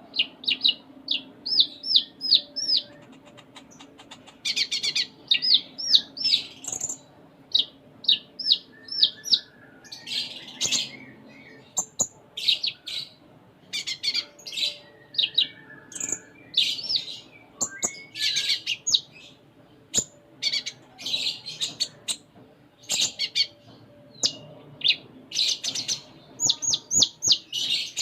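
Olive-backed sunbird (kolibri ninja) singing. Its song is made of quick runs of high, thin, sweeping chirps in short phrases with brief pauses, packed with varied mimicked notes.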